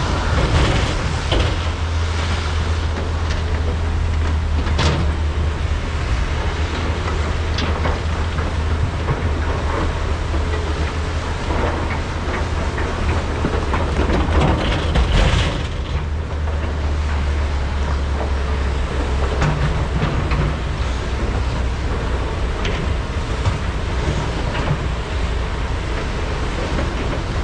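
Large diesel hydraulic excavators running under load while loading trucks, a steady low engine drone, with a few sharp knocks and clatters of bucket and rock, the loudest about five seconds in and about fifteen seconds in.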